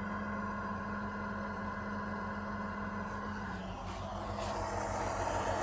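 Model locomotive sound decoder playing a GE 7FDL-16 diesel running at high RPM through its small onboard speaker. About four seconds in, the sound shifts and the locomotive's air compressor starts up and runs over the engine, a little louder.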